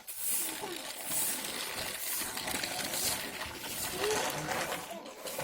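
Continuous light clattering and clinking of small hard objects, with a faint child's voice now and then.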